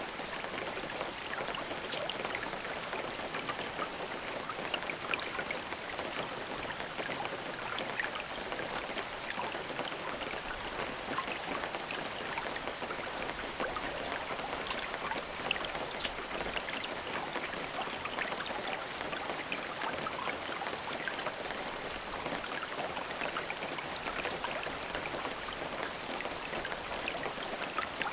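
Steady rain falling, an even hiss thick with many small drop ticks.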